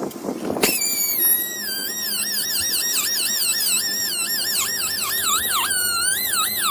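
High-pitched whine of a small high-speed rotary tool, its pitch dipping and rising again two or three times a second as it is pressed on and eased off the work.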